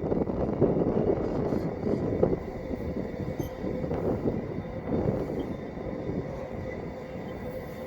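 Wagons of a long container freight train rolling past, with a rumbling clatter of wheels on the rails and a faint steady wheel squeal.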